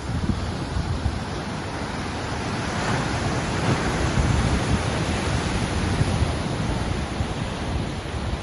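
Ocean surf: waves breaking and washing in a continuous rush, swelling louder about three to four seconds in, with a low rumble underneath.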